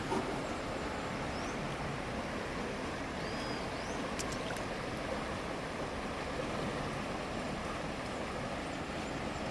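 River water flowing with a steady rushing noise, with a few faint high chirps and a couple of short clicks partway through.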